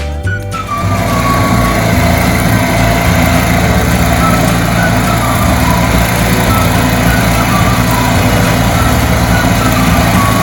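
A motor engine running steadily and loudly close by, with a constant low hum and a dense rushing noise over it, taking over as music cuts out about half a second in.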